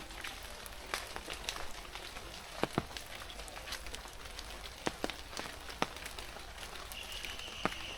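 Light rain and dripping water: a steady hiss with scattered, irregular sharp drops striking nearby surfaces. A high steady tone comes in about seven seconds in.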